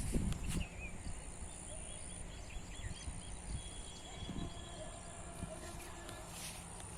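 Outdoor ambience: a low steady rumble with a few quick, high bird chirps in a short series a second or two in, after a louder rustle at the very start.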